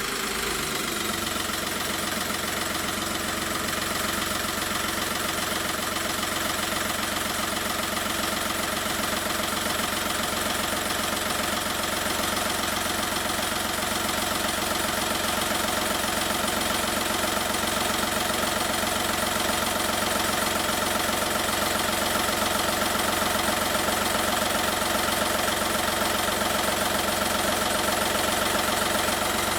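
Skoda Fabia 1.4 TDI BNV three-cylinder pump-injector turbodiesel idling steadily and cold, moments after starting following a cylinder head repair.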